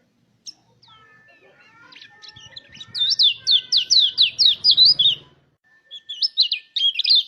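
White-eye (pleci) song. Thin, soft whistled notes give way about three seconds in to a loud, rapid run of sharp down-slurred notes, about five a second. The run breaks off briefly and starts again near the end.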